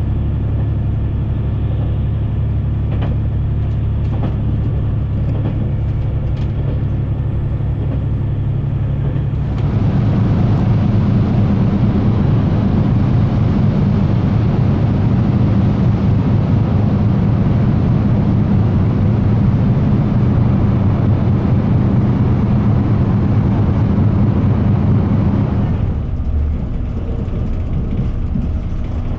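Train running noise: a steady hum with a thin high whine for about the first ten seconds, then a louder rumble, dropping back to a quieter hum about 26 seconds in.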